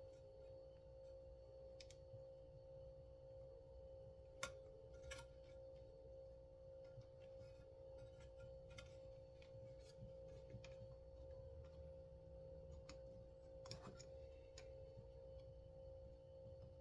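Near silence: a steady hum with a few faint, scattered clicks, the sharpest about four and a half seconds in.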